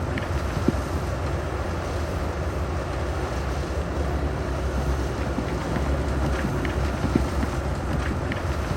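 Heavy construction machinery's diesel engine running steadily, with a few short sharp clanks about a second in and near the end.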